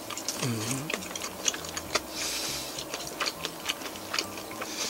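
Someone chewing a mouthful of fried chicken (karaage), with small irregular wet clicks from the mouth and a short hummed "mm" about half a second in.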